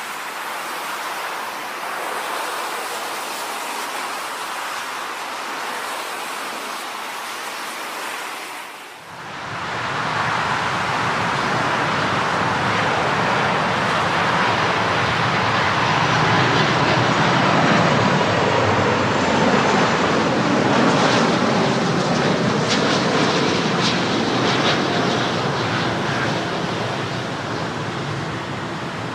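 Jet airliner engine noise: a broad rush with a faint steady whine that builds to its loudest around the middle and slowly eases. It is preceded by about nine seconds of steady hiss that cuts off abruptly.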